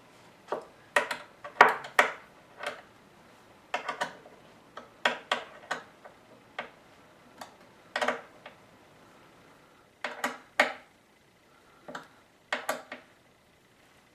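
Irregular sharp clicks and knocks of small hard objects, mostly in clusters of two or three with gaps of about a second between.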